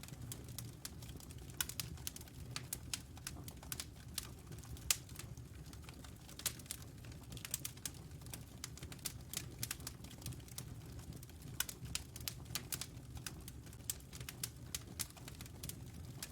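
Wood fire crackling in a fireplace: irregular sharp pops and snaps, several a second and some louder than others, over a low steady rumble of the burning fire.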